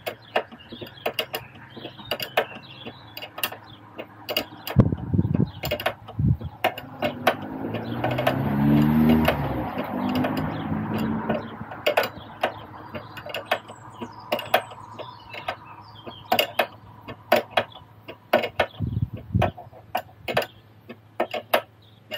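Ratchet wrench clicking in short irregular runs as a sway bar end link nut is tightened by hand, with a louder stretch of rubbing, grinding noise around the middle.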